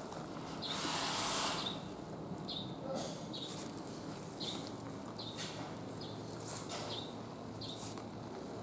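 A small bird chirping repeatedly, short high calls about once a second. About a second in comes a brief hiss lasting about a second, the loudest sound here.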